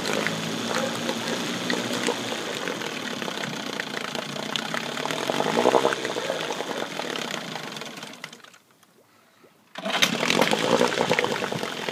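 1971 Johnson 6 hp two-stroke outboard running while being shifted through forward, neutral and reverse; its speed rises and falls around the middle. About eight seconds in it dies away, goes quiet for about a second, then suddenly runs again.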